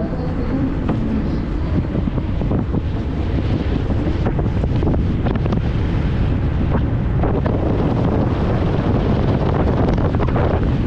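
Wind buffeting the on-board microphone of an engineless gravity race car rolling downhill, over a steady low rumble from tyres and chassis, with frequent knocks and rattles from bumps in the road. It grows slowly louder as speed builds.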